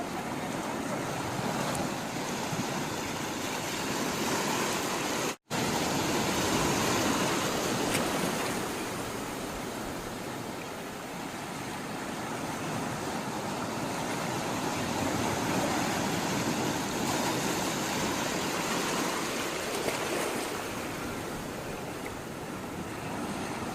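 Sea water rushing and washing, a steady noise that swells and eases every several seconds. It drops out completely for a split second about five seconds in.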